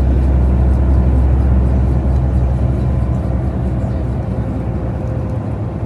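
Tour coach's engine and running noise, a steady low drone that eases off a little about halfway through.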